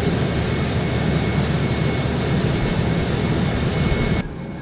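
Jet aircraft engines running: a steady loud rush with a thin high whine over it, cutting off suddenly near the end.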